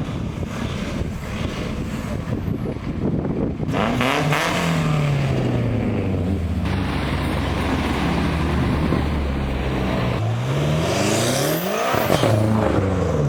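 Cars accelerating hard past. About four seconds in, one engine note drops in pitch as a car pulls away. Near the end another car's engine climbs in pitch, then falls sharply as it goes by.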